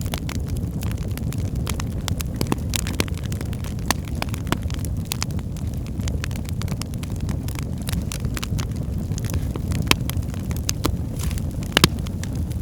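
Wood fire burning in a fireplace: a steady low rumble of the flames with irregular sharp crackles and pops throughout, a few louder pops near the end.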